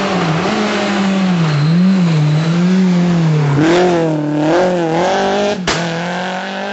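Rally car engine revving up and down repeatedly as it is driven hard through a hairpin, with a single sharp crack about two-thirds of the way in, after which the engine note holds steadier.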